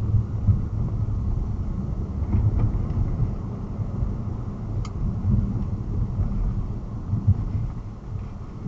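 Low, steady rumble of a moving vehicle with road noise, buffeted unevenly by wind on the microphone.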